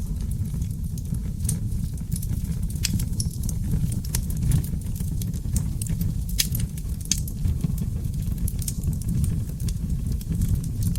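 Seasoned oak logs burning in a fireplace: a steady low rumble of flames with irregular sharp crackles and pops throughout, a few louder pops around the middle.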